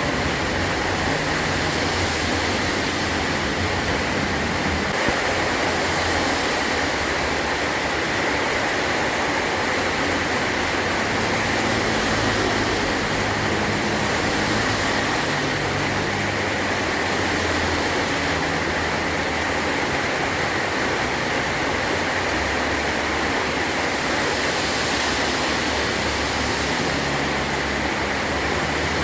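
Heavy rain drumming steadily on a metal tin roof, an even, unbroken wash of noise.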